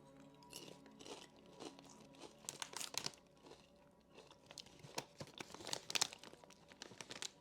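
Crunching and chewing of potato chips close to the microphone, in irregular bites with the loudest crunches about three seconds and six seconds in.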